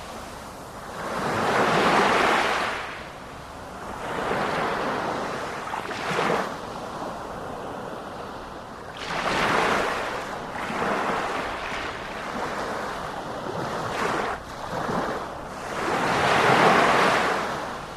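Sea waves breaking on the shore, the surf swelling and falling away in repeated surges every few seconds.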